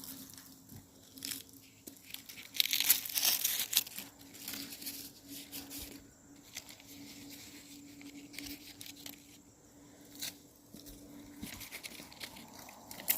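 Footsteps crunching and crackling through dry leaf litter and twigs on the woodland floor, heaviest about three seconds in and then lighter and irregular.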